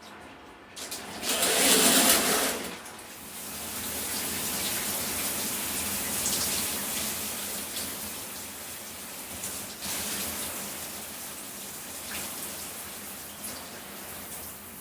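Shower spray running over a person's body, with a louder gush lasting about two seconds near the start, then steady falling water that swells and eases a little as the body moves under it.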